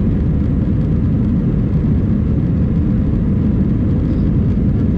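Steady low rumble of engine and airflow noise inside the cabin of an Airbus A319 in flight.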